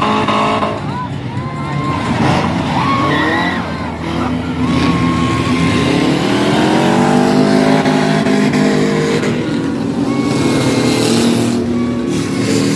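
Demolition derby cars' engines revving hard, several at once, their pitch rising and falling as they accelerate and back off, with short high squeals now and then.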